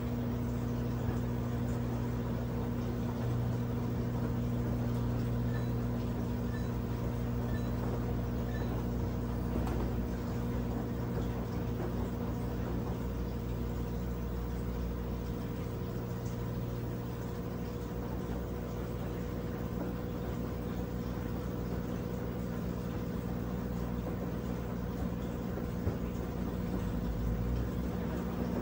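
Brastemp 17 kg washing machine running mid-cycle, its motor giving a steady even hum.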